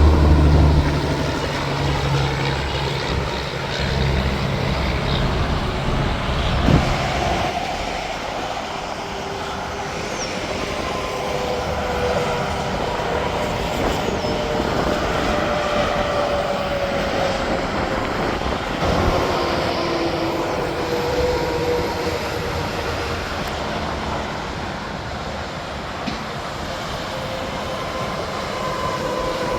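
Interstate highway traffic passing at speed: semi trucks and cars going by, with a heavy truck's engine loudest in the first couple of seconds and tyre whine slowly falling in pitch as vehicles pass.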